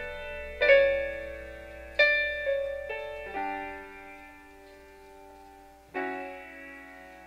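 Instrumental music: piano chords struck one after another and left to ring and fade, over a low held bass note.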